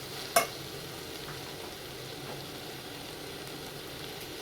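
Vegetables sizzling steadily in a hot frying pan, with one sharp clink, like a utensil striking the pan, less than half a second in.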